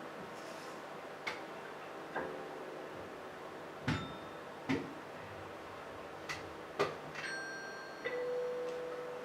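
Sparse, quiet percussive taps in an acoustic ambient piece, six scattered knocks with brief ringing, then a bell-like ringing tone about seven seconds in and a held lower note near the end.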